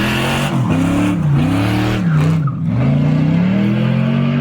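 Car engine being revved hard through its exhaust: the pitch climbs and drops three times in quick succession, then rises in one longer pull and holds near the end.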